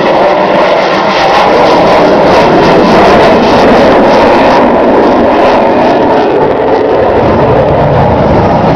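Twin General Electric F414 turbofan engines of an F/A-18F Super Hornet flying past, a loud, steady jet roar with a deeper rumble building near the end.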